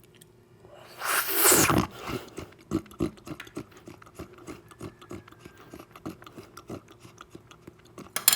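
Close-miked mouth sounds of eating a runny soup. A loud slurp about a second in is followed by wet smacking chews and gulps at about three a second, with a sharp click near the end.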